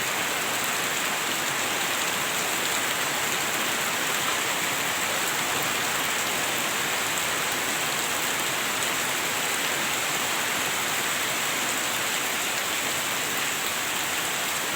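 Heavy rain falling steadily, a dense, unbroken hiss of downpour with faint scattered drop ticks.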